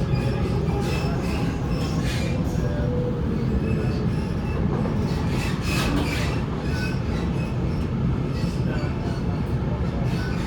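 Waratah A set electric train running along the line: a steady rumble of wheels on track with intermittent high-pitched wheel squeal, loudest about six seconds in.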